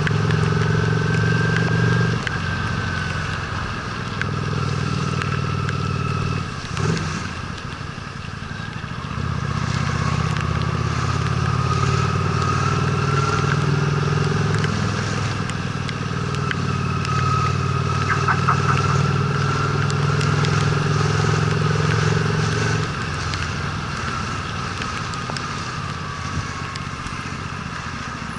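Honda Steed V-twin motorcycle engine running while riding, with the throttle easing off briefly about two seconds in and again near seven seconds, and dropping back for the last few seconds, over a steady hiss.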